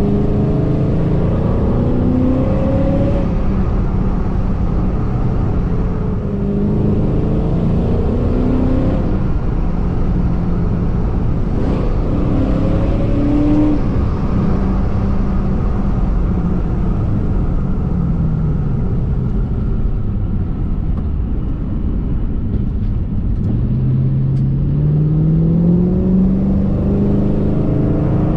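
Supercharged 4.6-litre V8 of a 2006 Ford Mustang GT (Stage 3) heard from the driver's seat while accelerating, the engine note rising and falling several times as it pulls and the revs drop, climbing again near the end.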